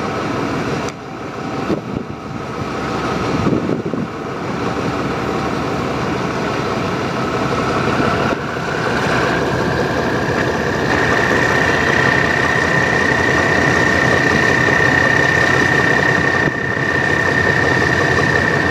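A train running with a steady engine rumble and a whine that rises in pitch about eight seconds in, then holds steady.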